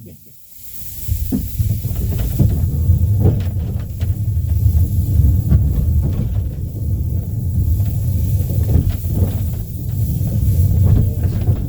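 Small steam locomotive hissing steam, with a steady low rumble underneath, building up about half a second in.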